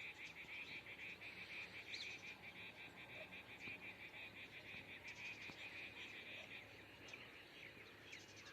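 Faint chorus of frogs calling in a steady, pulsing trill that fades out about two-thirds of the way through, with a few short bird chirps over it.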